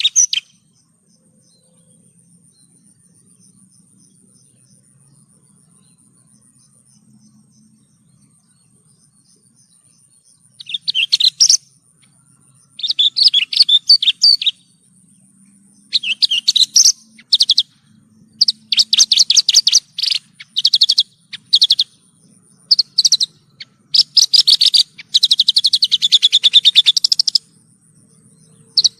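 Horsfield's bush lark (branjangan) singing: after a pause of about ten seconds, a series of fast trilled phrases in quick succession, with a longer, unbroken phrase near the end.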